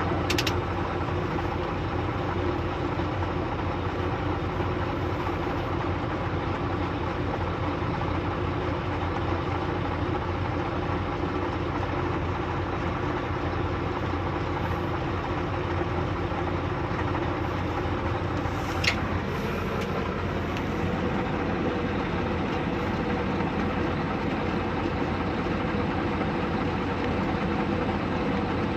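A motor vehicle's engine running steadily with a constant hum, with a sharp click about 19 seconds in.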